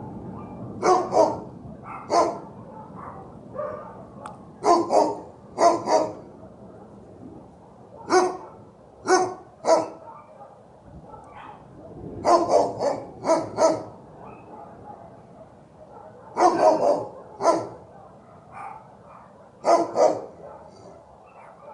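A dog barking over and over in short runs of two to four barks, a fresh run every few seconds.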